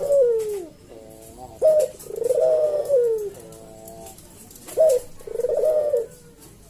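A puter (Barbary dove) cooing slowly in the deep 'kuk deruk' manggung song. Each phrase is a short sharp note followed by a long falling coo, repeated about every three seconds.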